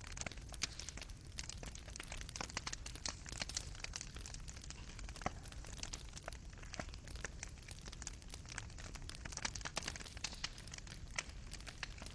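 Wood fire in a fireplace crackling: a dense, irregular run of sharp pops and snaps from the burning embers over a soft steady rumble of the flames.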